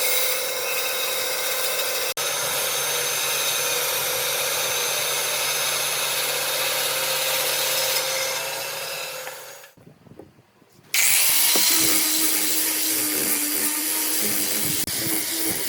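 Power tools working wood: a steady, hissy tool noise that fades away about eight seconds in, a second of near silence, then a different power tool starts abruptly with a steady hum under its noise.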